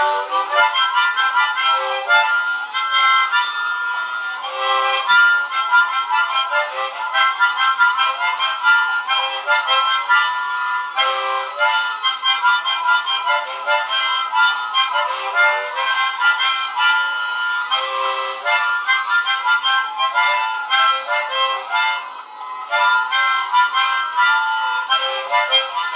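Harmonica playing an instrumental break of quick, changing notes and chords, all in a high register with no bass beneath.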